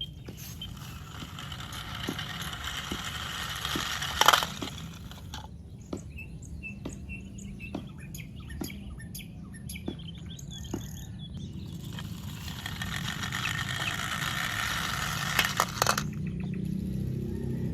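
Handling of toy packaging: two stretches of crinkly rustling, with a run of light clicks, roughly one every half second to second, in between.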